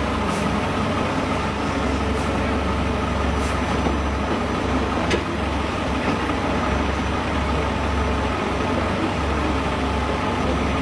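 A heavy truck engine running steadily at low revs, with a few light metallic clicks in the first half.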